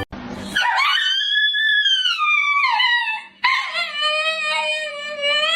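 A dog howling: two long howls, the first rising and then falling in pitch, the second held steady before sliding down at its end.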